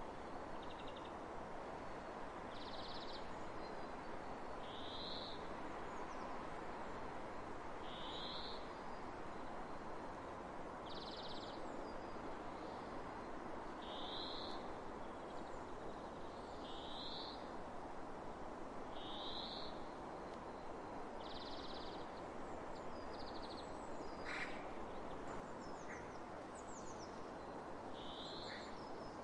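Open-field ambience: a steady hush of wind over grass, with a short high chirp repeated about every two to three seconds, a dozen times in all. A brief sharp sound stands out near the end.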